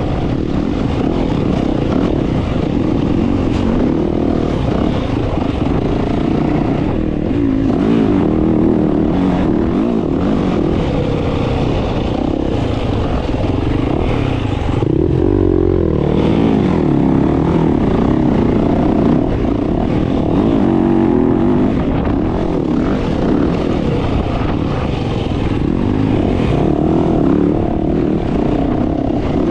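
Dirt bike engine running under load on a trail ride, its revs rising and falling steadily with the throttle.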